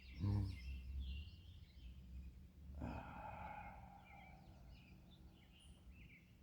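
A person's voiced sigh about half a second in, then a long breathy exhale starting about three seconds in. Birds chirp faintly throughout.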